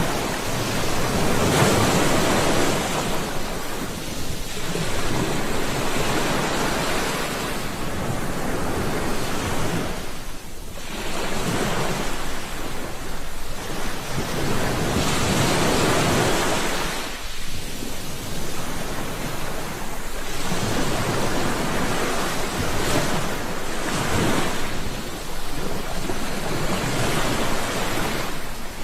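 Sea waves breaking and washing on a shore, a continuous rushing surf that swells and eases every few seconds.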